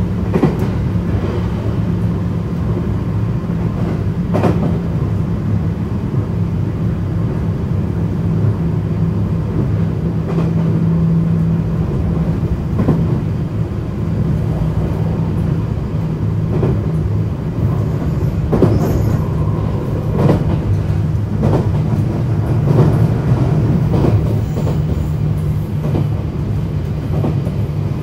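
JR West 321 series electric train running at speed: a steady low hum and rumble, with scattered sharp clacks from the wheels over rail joints.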